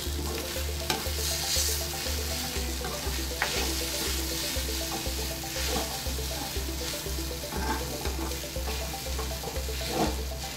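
Ground chicken masala paste sizzling in hot oil in a kadai while a steel ladle stirs and scrapes it against the pan, over background music with a steady beat about twice a second.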